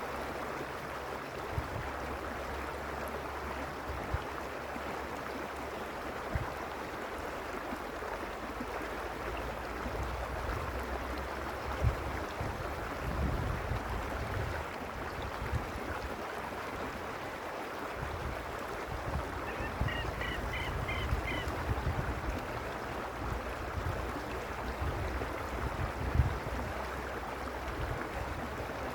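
Creek water rushing steadily over stones, with uneven low rumbles and a few sharp low thumps beneath it. About two-thirds of the way in, a bird gives a quick series of about half a dozen high chirps lasting a couple of seconds.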